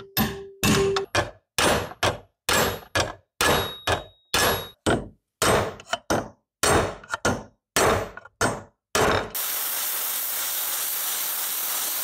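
A hammer striking metal parts in quick, repeated blows, about two a second, each with a short metallic ring. About nine seconds in, the blows give way to a steady hiss that stops abruptly.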